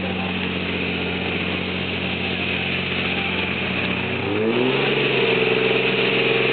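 4x4 off-road vehicle engine running steadily; a little over four seconds in the sound changes abruptly and an engine revs up, climbing in pitch and then holding steady at higher revs, louder.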